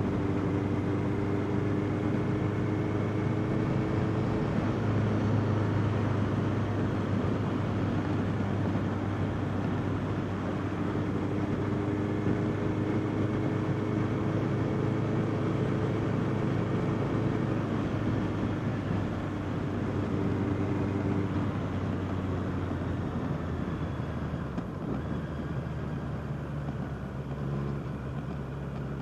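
Honda CBR650R inline-four engine running at steady revs while riding, with wind rushing past the microphone. In the last few seconds the engine eases off and settles lower.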